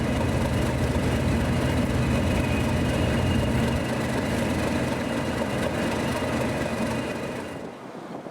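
Heavy diesel locomotive engine running steadily with a high whine over it, dropping away sharply near the end.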